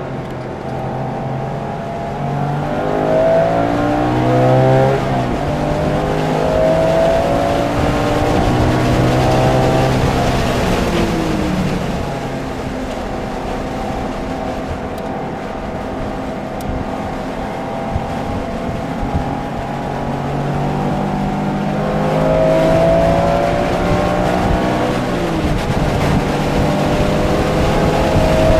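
Porsche engine under hard acceleration on a racetrack, heard from inside the car, its pitch climbing and dropping several times as it revs up, shifts and lifts for corners, with a steadier stretch in the middle. Wind and tyre noise run underneath.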